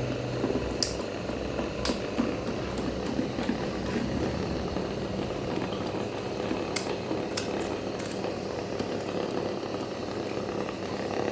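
Electric fan fitted with a homemade funnel or plate propeller, running with a steady whirring rush and a few sharp clicks.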